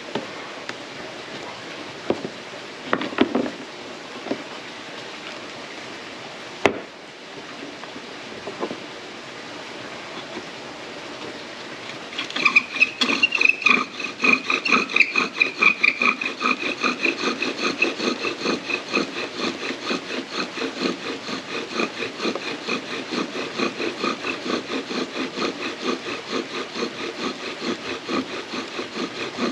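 Bow drill at work: a few knocks as it is set up, then from about twelve seconds in the bow is drawn back and forth in a steady rhythm, the wooden spindle squeaking and grinding against the fireboard to make an ember.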